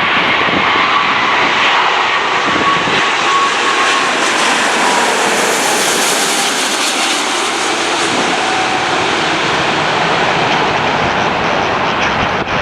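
Wide-body jet airliner passing close by, its engine noise building to a peak about midway and then easing off, with a faint whine that drops a little in pitch.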